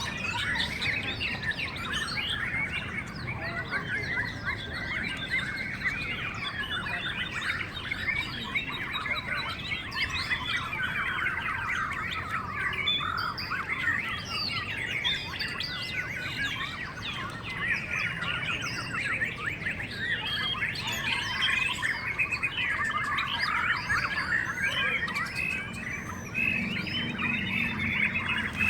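Many caged white-rumped shamas singing at once, a dense, unbroken mass of overlapping whistled phrases and chirps.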